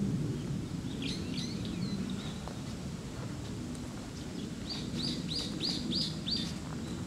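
A songbird calling: a few high notes about a second in, then a quick run of about five short high notes near the end, over a steady low rumble.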